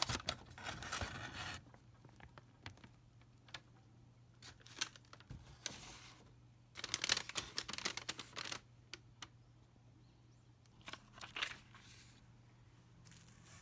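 Packaging being handled and opened: quiet bursts of paper or plastic rustling, crinkling and tearing, in several short groups with pauses between.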